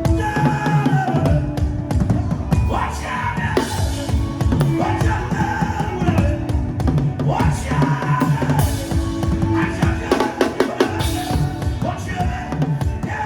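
Music led by fast, dense drumming, with a stepping bass line and higher melodic parts over it.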